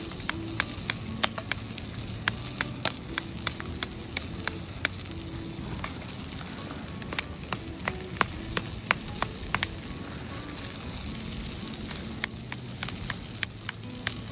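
A thick block of bacon sizzling as it grills over a wood fire, with frequent sharp pops of spitting fat. The underside is browning.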